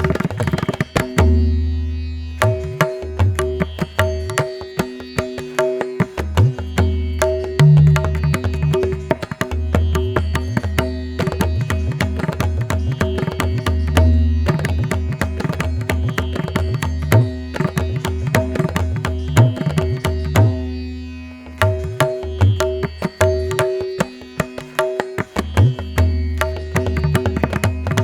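Instrumental background music in an Indian classical style: a quick drum rhythm of many sharp strokes over steady held drone tones, with a low bass part that drops out briefly a few times.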